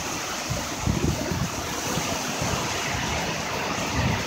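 Heavy downpour hissing steadily on a city street, with car tyres swishing through the water on the road. Irregular low rumbles, strongest about a second in and near the end, from wind buffeting the microphone.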